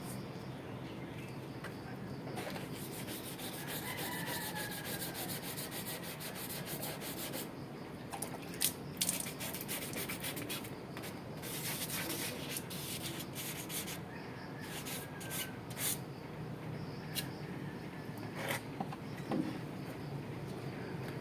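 Scrubbing the exhaust hood's metal surface by hand: rapid back-and-forth rubbing strokes in spells of a few seconds, with pauses between.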